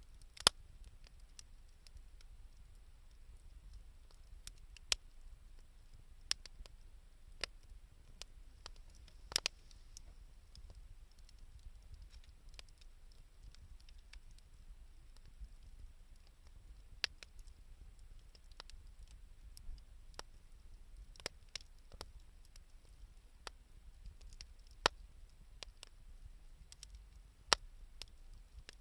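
Wood fire of scrap 2×4 lumber and scavenged wood crackling: sharp, irregular pops every second or two over a faint low rumble.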